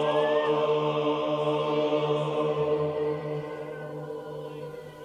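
Orthodox church chant sung by a group of unaccompanied voices, held on a steady chord, fading away over the last two seconds.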